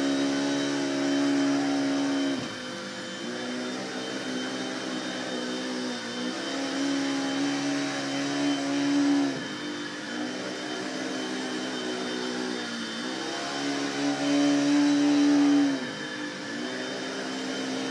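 Vacuum cleaner motor running, its hum dipping and rising in pitch and loudness every few seconds.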